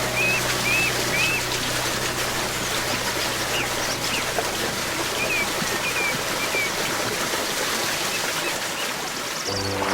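Clear stream flowing steadily, with a small bird giving a quick run of short, repeated chirps at the start and a few scattered chirps a few seconds later. Soft music fades out in the first second and comes back just before the end.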